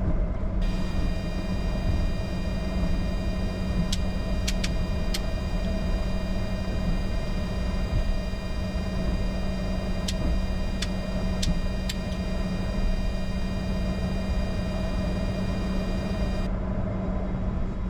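Steady cockpit noise of a Bombardier Challenger 605 taxiing with its engines at idle: a constant low rumble and hum. A faint high buzzing tone switches on about half a second in and cuts off near the end, and a few sharp clicks come in two clusters.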